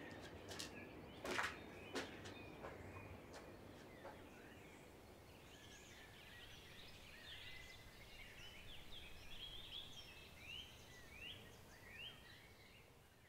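A few soft knocks in the first seconds, then faint birds chirping, the calls quick rising and falling sweeps, fading out near the end.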